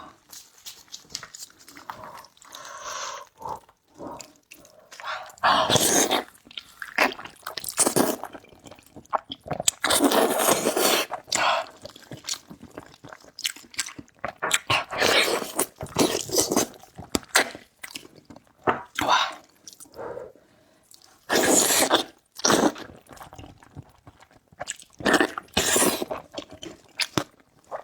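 Close-miked eating sounds: chewing and biting food, with irregular loud noisy bursts of about a second each every few seconds and short wet clicks between them.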